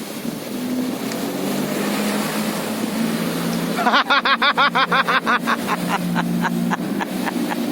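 Motorboat engine running steadily under way, with a broad rush of water and wind. About four seconds in, a rapid high warbling trill, about eight pulses a second, cuts in loudly and fades away over some three seconds.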